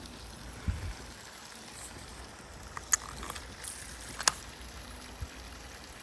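Steady rush of flowing creek water, broken by a low thump early on and a few sharp clicks around the middle and later.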